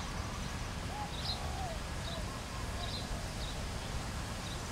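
Birds calling: short high chirps repeating every half second or so, with a few lower whistled notes about a second in, over a steady low rumble.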